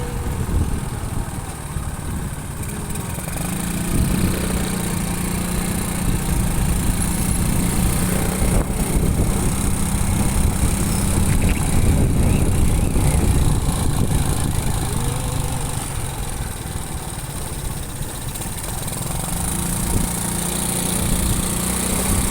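Motorcycle engine running while riding, heard over low rumble. Its note holds steady for several seconds, drops away about two thirds of the way through, then climbs again near the end as the bike picks up speed.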